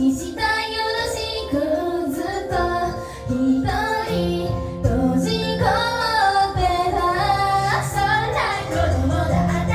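Female voices singing a J-pop idol song live over a backing track with a steady bass line.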